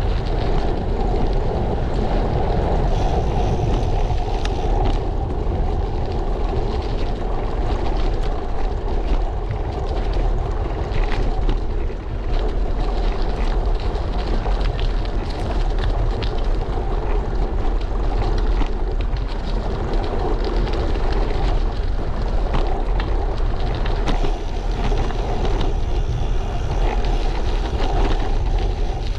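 Steady wind rumble on the microphone of a bicycle-mounted action camera, mixed with the road noise of tyres rolling along at riding speed.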